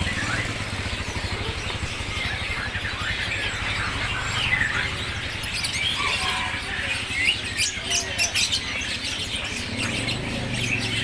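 Many caged songbirds chirping and calling over one another, short whistled notes and sharper chips, with a bird market's low steady hum underneath.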